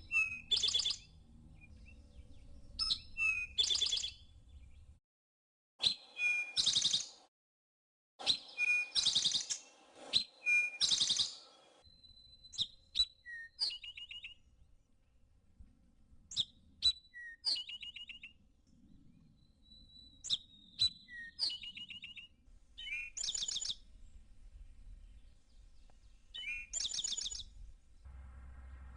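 Eastern towhee singing its 'drink-your-tea' song again and again: a short introductory note followed by a buzzy trill, repeated every few seconds. A few thin, steady whistled notes sound between some of the songs.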